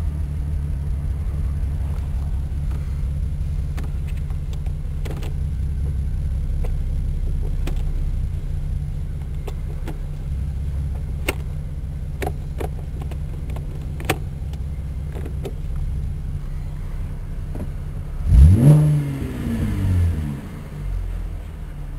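A 2009 Holden Commodore's 3.6-litre V6 idles steadily, with a few light clicks as the automatic gear selector is moved through its positions. Near the end the engine is revved sharply once, its pitch rising and falling back, then given a smaller rev.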